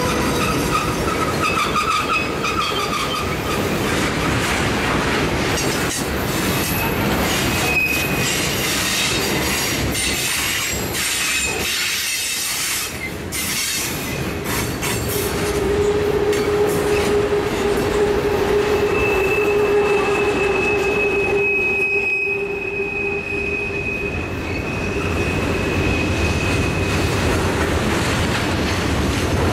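Freight train cars rolling past on a curve: a steady rumble and clatter of steel wheels on rail, with drawn-out squeals from the wheels on the curved track that come and go, the longest running through most of the second half.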